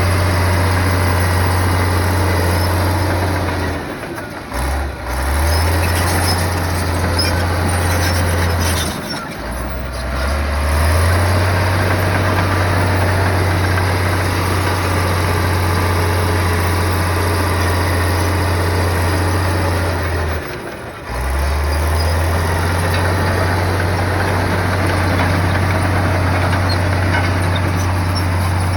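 Komatsu bulldozer's diesel engine running with a steady low drone, its note dropping briefly three times, about four, nine and twenty-one seconds in, before picking back up.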